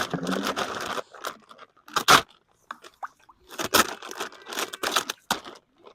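Feed sacks rustling and crinkling as they are handled while feeding meat birds, with scraping, in several irregular bursts.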